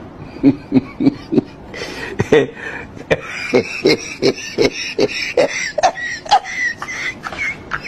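Rhythmic percussive mouth sounds from a person, like beatboxing, about three sharp beats a second, with a hiss layered in from about two seconds in.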